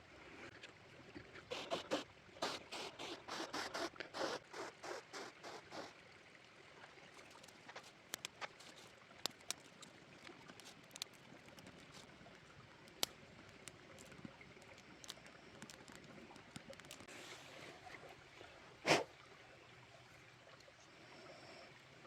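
A drink glugging in short pulses, about three a second, as it is poured, then scattered sharp crackles from a campfire, with one short loud rush near the end.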